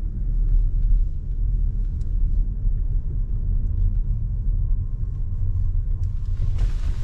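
Car interior road noise: a steady low rumble of the engine and tyres while driving, with a faint steady tone appearing about halfway through.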